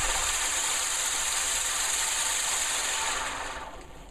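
A ground firework burning with a steady hiss of spraying sparks, dying away about three seconds in as it burns out.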